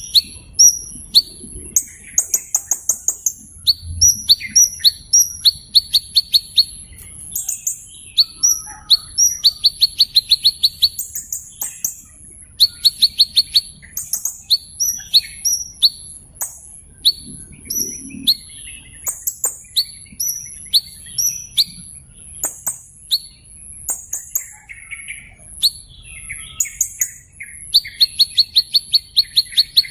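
Small bird singing: sharp high chirps mixed with quick trills of about eight to ten notes, repeated every second or two.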